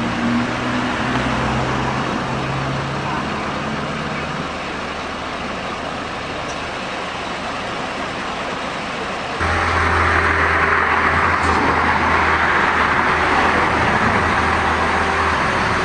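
Motor vehicle engines and road traffic running steadily. About nine seconds in the sound cuts abruptly to a louder engine hum with heavier road noise.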